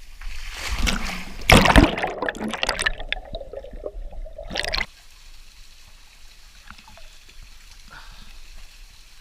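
Water splashing and sloshing close to the microphone, loudest about a second and a half in, as someone moves through a freshwater pool. After about five seconds it drops to a faint trickle of water.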